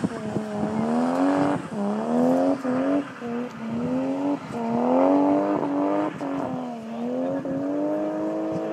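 Drift car's engine revving hard through a slide, its pitch climbing and dropping sharply several times, then holding steady at high revs near the end.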